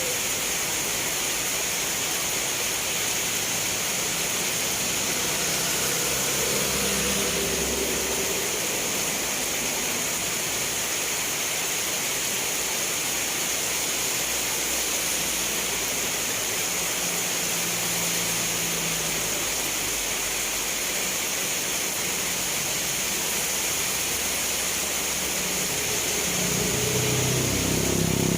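Steady rain falling, an even hiss. A motor vehicle's engine is heard faintly in the background a couple of times and grows louder near the end as it approaches.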